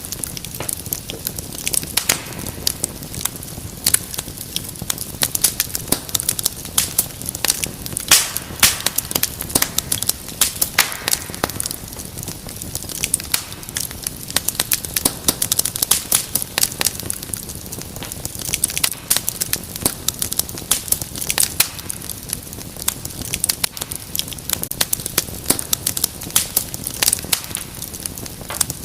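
Wood fire crackling and popping in a fireplace: dense, irregular sharp pops over a low steady hiss.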